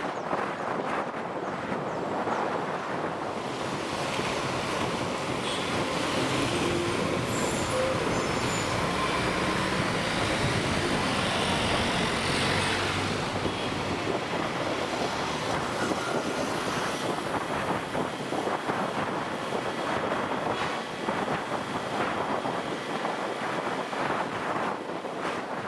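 Road and traffic noise from a moving motorcycle, with wind on the microphone and a heavier vehicle's noise alongside. The noise swells from about four seconds in and eases after about fourteen seconds.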